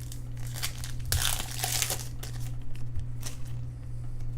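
Foil trading-card pack wrapper crinkling and tearing as a pack is opened, in irregular crackly bursts, thickest about a second in. A steady low hum runs underneath.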